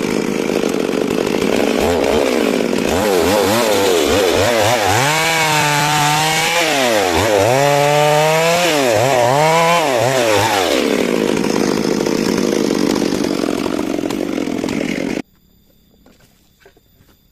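Stihl MS 382 two-stroke chainsaw cutting through a large trembesi log under load. Its engine pitch dips and climbs back several times in the middle as the chain bites and frees up. The sound cuts off suddenly near the end.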